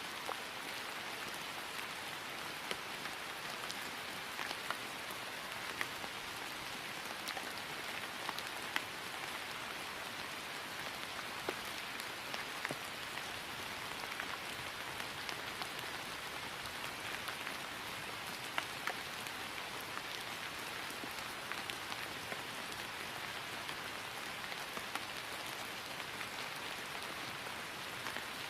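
Steady rain falling on grass, an even hiss dotted with the ticks of individual drops.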